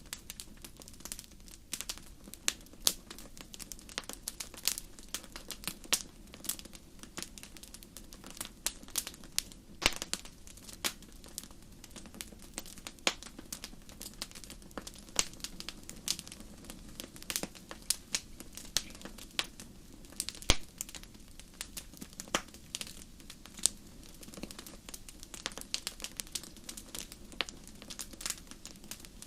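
Wood fire crackling: irregular sharp pops and snaps over a low steady background.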